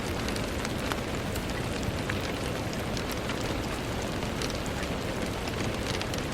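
Steady rain falling on a window: a dense, even hiss with many individual drops ticking sharply at random.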